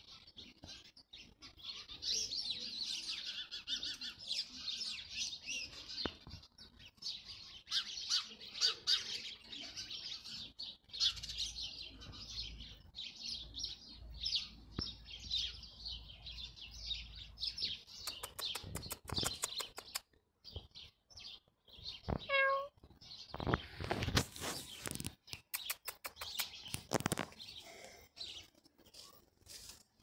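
Songbirds chirping and twittering in rapid high notes, a dense chorus through the first half that thins out later. In the second half, runs of sharp clicks and knocks come and go, and there is one short pitched call.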